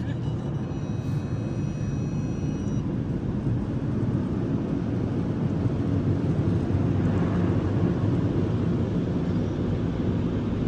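Automatic car wash machinery running around the car, heard from inside the cabin as a steady low rumble with a rushing haze above it.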